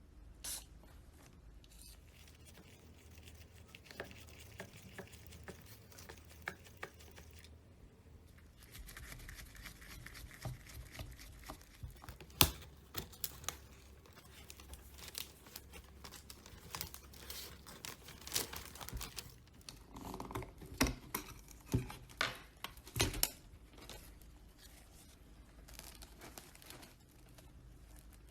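Hands working on a metal scale model car: scattered clicks and small knocks with scraping and rustling, busiest through the middle.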